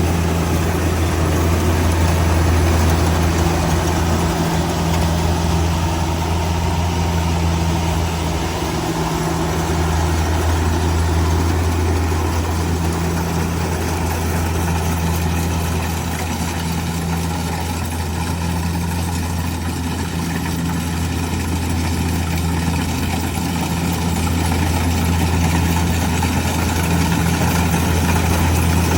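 Kubota DC70G Plus combine harvester's diesel engine running steadily at a low, even hum.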